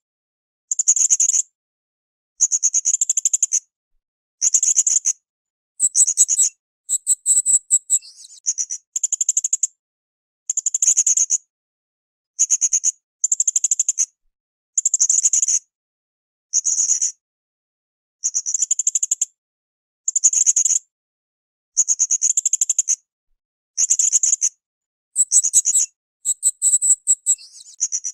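Blue-crowned hanging parrot (srindit) calling: short, very high-pitched, rapid trills repeated about every two seconds, each under a second long, with silence between them.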